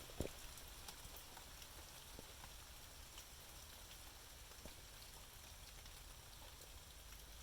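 Near silence: faint background hiss and low hum with a few scattered soft clicks, one slightly louder tick shortly after the start.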